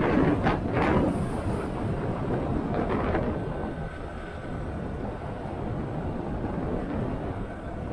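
Motorcycle running at road speed, with wind rushing over the microphone. There are a few louder gusts in the first second or so and another around three seconds in.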